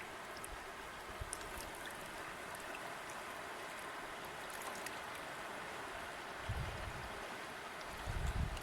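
River water running steadily, a continuous rushing hiss dotted with small splashes. Low rumbles swell in about six and a half seconds in and again just before the end.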